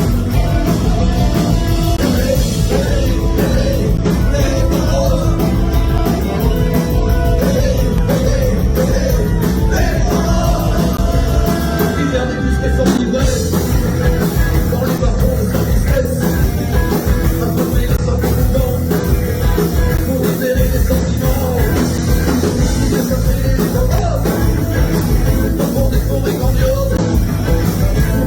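Rock band playing live, loud and steady throughout, with some singing.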